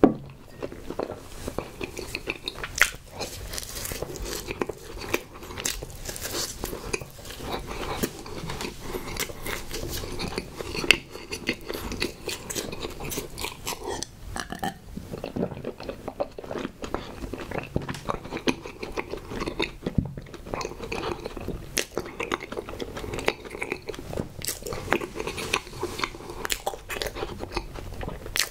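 Close-miked chewing of a soft, coconut-coated marshmallow snack cake (Twinkie Sno Ball), with wet smacking and a steady patter of small clicks. Swallows of strawberry milk come partway through, and a few sharper clicks stand out above the chewing.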